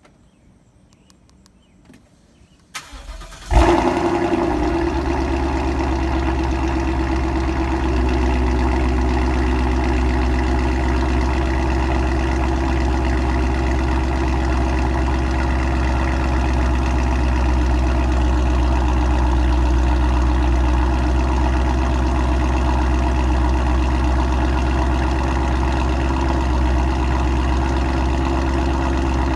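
Ford Mustang GT 5.0 V8 with a Corsa Xtreme cat-back exhaust cold-starting: a short crank about three seconds in, a loud flare as it catches, then a steady fast idle. The owner calls this exhaust so loud.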